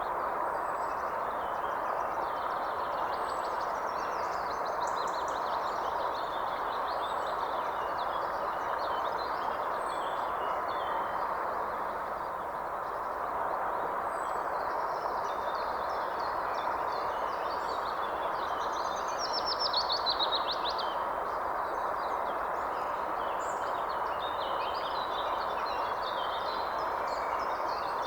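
Several birds singing and calling over a steady rushing background noise, with short high chirps every few seconds and a louder rapid trill about two thirds of the way through.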